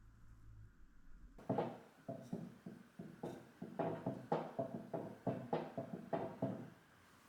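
A run of sharp knocks on wood, about two to three a second, starting a little over a second in and stopping near the end, each with a short ringing tone of the same pitch.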